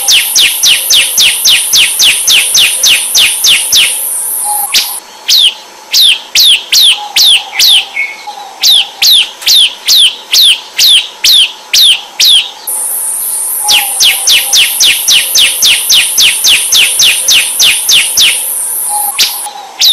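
Bar-winged prinia (ciblek) song played as a tutor recording: rapid runs of sharp downward-slurred notes, about four or five a second, over a steady high-pitched buzz, alternating with slower notes about two a second. The sequence repeats over and over.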